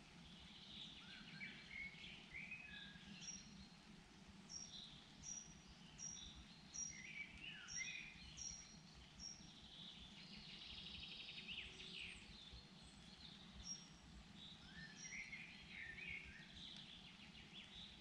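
Faint woodland birdsong from several birds. One repeats a short high note every second or less, while others sing quick chirping phrases that fall in pitch, with a rapid trill near the middle.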